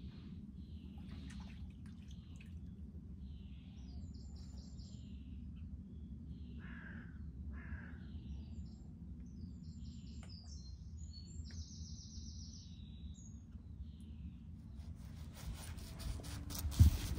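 Garden birds calling and chirping in short scattered calls and trills over a steady low rumble. Near the end comes a run of quick clicks and a loud knock.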